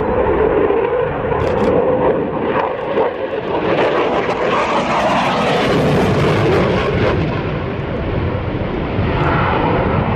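Aircraft engine noise from an airshow flypast, a steady roar that grows fuller and brighter around the middle and then eases slightly.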